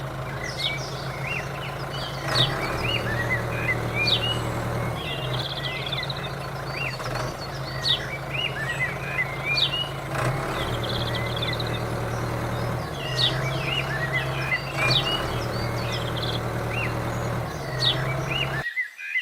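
Mini diesel water-pump engine running steadily, with birds chirping over it. The sound cuts off abruptly near the end.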